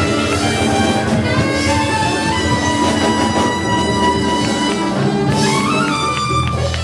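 Live jazz band playing, settling near the end onto a long held final chord as the tune finishes.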